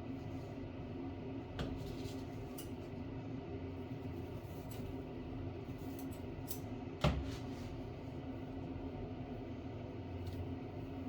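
Steady low background hum with a few light clicks, a small knock about one and a half seconds in and a sharper, louder knock about seven seconds in.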